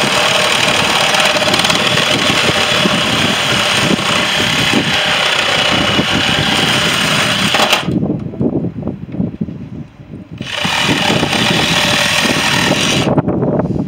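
Power tool running loudly on the scrap boiler. It runs for about eight seconds, stops briefly, then runs again for about three seconds.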